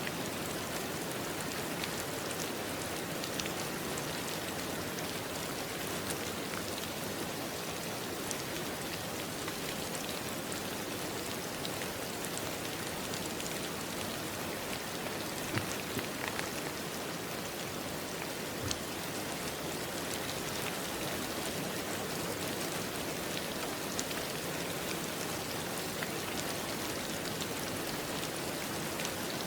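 Steady rain falling on a surface, with scattered individual drops ticking through a continuous hiss.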